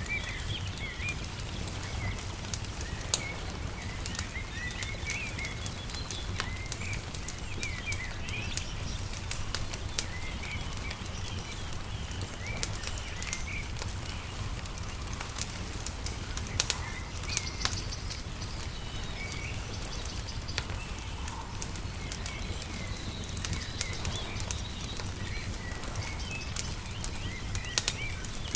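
Wood fire crackling with scattered sharp pops, a few louder ones partway through and near the end, mixed with small birds chirping again and again, over a steady low rumble.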